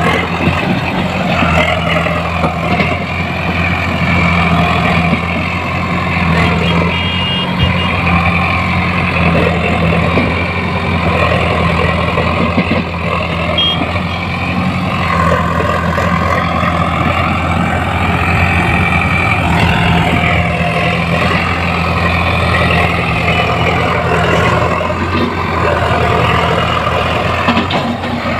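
Sonalika DI 745 tractor's diesel engine running steadily with a constant low hum, hauling a fully loaded trolley.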